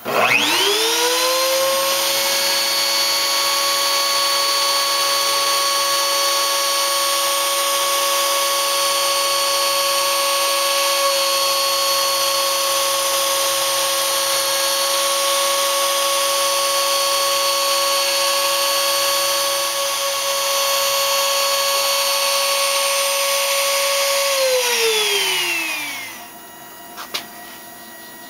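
CNC router spindle motor spinning up to speed with a rising whine, running at a steady high pitch for about twenty-four seconds, then winding down with a falling whine. A faint hum and a single click follow.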